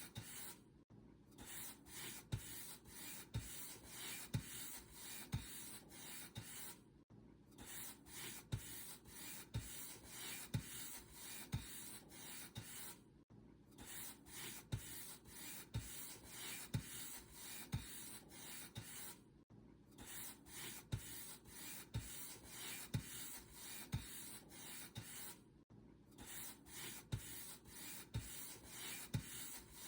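Paint brush bristles stroked back and forth over a surface, a soft, even scratchy rubbing at about two strokes a second, with a brief pause about every six seconds.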